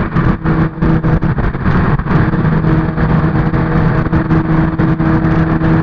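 A car engine running at a steady speed, over a rough rushing noise.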